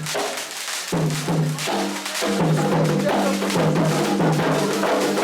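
Candomblé ritual percussion: atabaque hand drums play a repeating rhythm under sharp, bright strikes. The music thickens about two seconds in, with singing joining.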